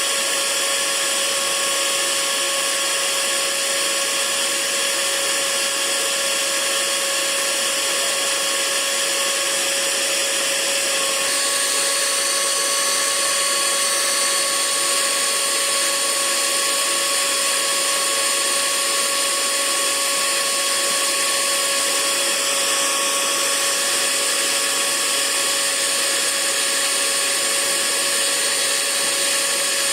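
Hair dryer running steadily: an even rushing hiss with a steady motor whine, its tone changing slightly about eleven seconds in.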